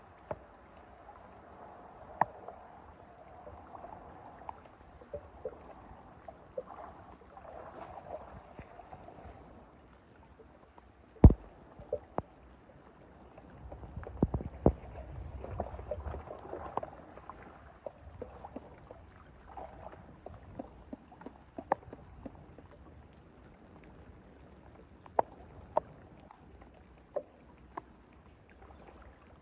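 Water sloshing and splashing, with scattered sharp clicks and knocks. One loud knock comes about eleven seconds in.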